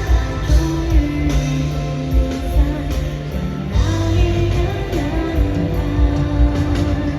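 Live pop concert music: the band plays a passage with a beat and a moving melody line, with no clear sung words.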